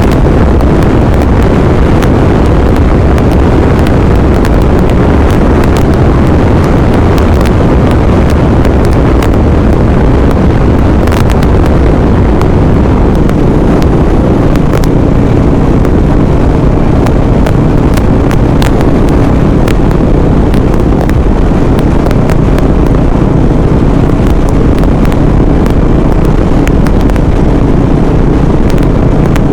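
Heavy wind rushing over the microphone of a motorcycle riding at highway speed through a sandstorm, with the bike's engine running underneath and frequent sharp ticks.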